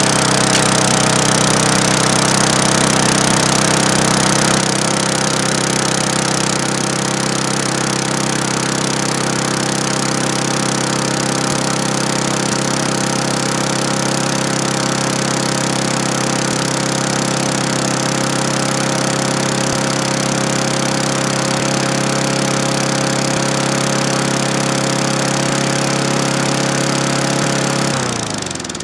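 Briggs & Stratton single-cylinder lawn mower engine running steadily at speed on fresh gas after sitting for three years. It settles slightly a few seconds in, then is shut off near the end, its pitch falling as it winds down and stops.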